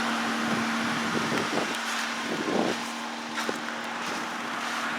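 2008 Ford Escape's 3.0-litre V6 idling steadily with a constant hum, warming up after a cold start in freezing weather. Some brief handling noise in the middle and a single sharp click about three and a half seconds in.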